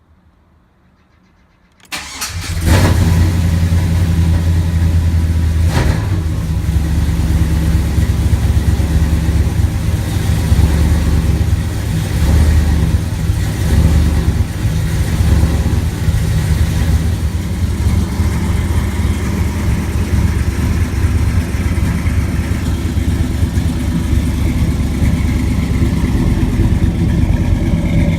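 LS-swapped 5.3-litre V8 in a 1978 Chevy Caprice starting about two seconds in, then running at a steady idle, with one short sharp blip a few seconds after it catches.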